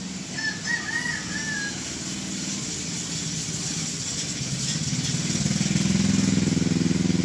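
A few short bird chirps in the first second or two, then a vehicle engine that grows steadily louder from about halfway, as if it is coming closer, and is loudest near the end.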